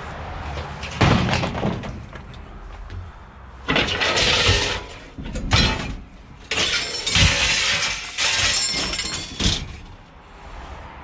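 Scrap metal clattering and crashing as pieces are thrown down and sorted, in several rough bursts with a longer run of clatter in the second half.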